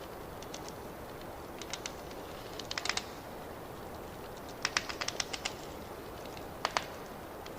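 Wood fire crackling: a steady hiss with small clusters of sharp pops and snaps, the loudest clusters about three seconds in, around five seconds in, and near the end.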